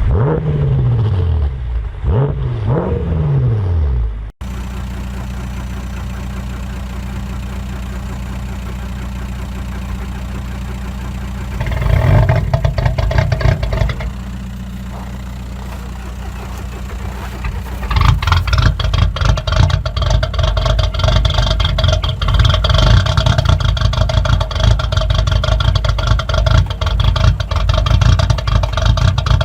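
Diesel engines cold-starting and running. For the first four seconds the pitch sweeps up and down, then it cuts off abruptly. A steady low drone follows, with a loud burst about twelve seconds in. From about eighteen seconds an engine runs loud and rough with rapid pulses.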